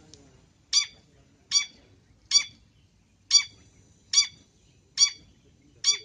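Long-tailed shrike (pentet) giving a series of short, harsh calls, seven in a row a little under a second apart, played as a lure call to attract shrikes.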